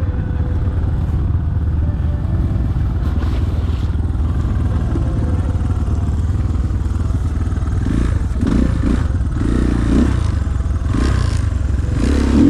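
Enduro motorcycle engine running steadily at low revs, with a few brief rises about two-thirds of the way in.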